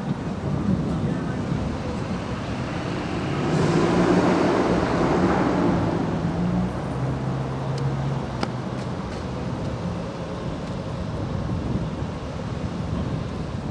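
A motor vehicle drives past, its engine and road noise swelling about four seconds in, dropping in pitch as it goes by and fading, over steady street noise.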